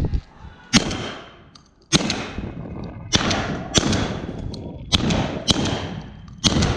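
A rapid volley of about seven shotgun blasts, the first just under a second in and the rest coming roughly every half second to a second, each with a rolling echo, as hunters fire at a flock of pigeons flushing from farm buildings.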